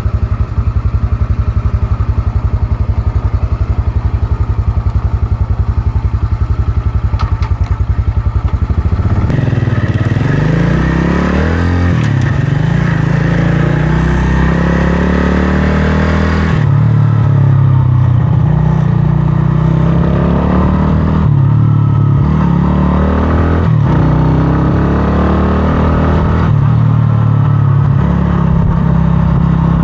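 125cc scrambler motorcycle engine idling with a fast, even beat, then pulling away about nine seconds in and accelerating through the gears: the pitch rises and falls back at each of several gear changes.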